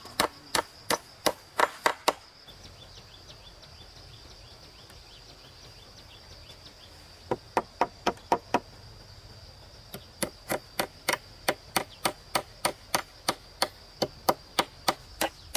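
Wood being chopped with a blade: runs of sharp strikes at about three a second, pausing for several seconds in the middle before starting again.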